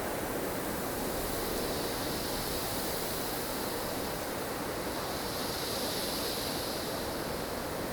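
Blustery snowstorm wind rushing steadily, with a higher hiss that swells twice, about a third of the way in and again near the end.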